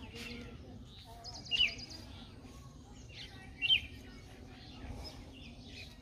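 Birds chirping: short, sharp calls, with a quick run of high notes and two louder chirps, one about a second and a half in and one near four seconds in.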